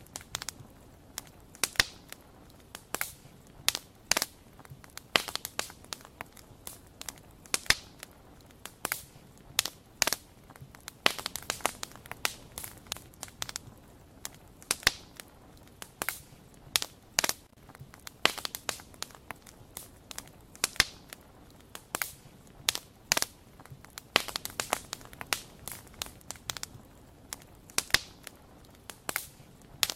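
Wood fire crackling, with sharp irregular pops and snaps of burning wood.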